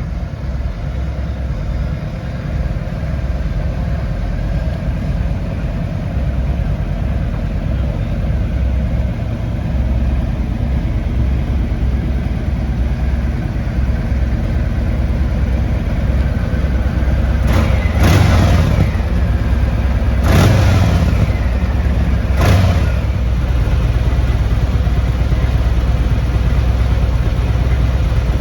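Harley-Davidson Street Glide V-twin engine running under way on the road, a steady low drone. Three short louder swells come close together about two-thirds of the way through.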